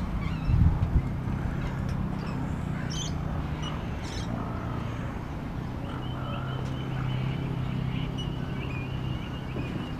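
Outdoor ambience: birds chirping in short repeated calls from about the middle onward, over a steady low hum, with a short knock about half a second in.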